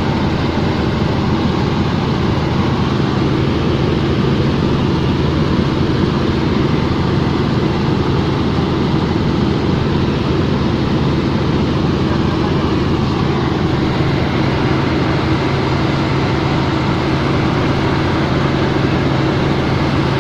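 Helicopter running, a loud steady drone with a constant low hum that does not change.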